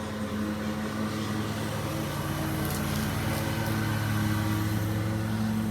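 Small petrol engine of a lawn mower running steadily outside, a constant low drone.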